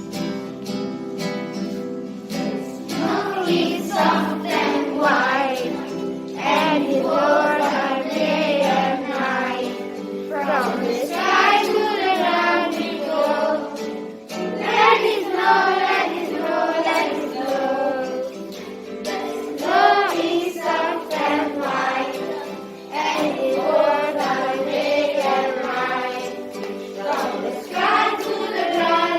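A group of children singing a song together over instrumental accompaniment, the voices coming in about three seconds in over sustained backing chords.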